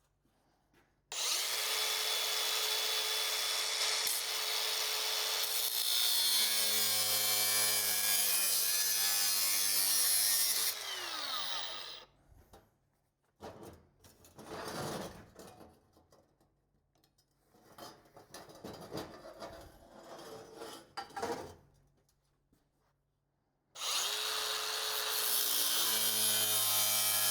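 Electric power tool working metal in two long runs. Each run starts suddenly, and the first winds down with a falling whine. Between the runs there are scattered knocks and scrapes of metal pieces being handled.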